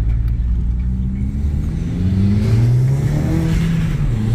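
Audi TT's 1.8T turbocharged four-cylinder engine, fitted with a Grams 70mm throttle body, accelerating under load, heard from inside the cabin. Its note climbs in pitch, drops back about two and a half seconds in as it shifts up, then climbs again and drops once more near the end.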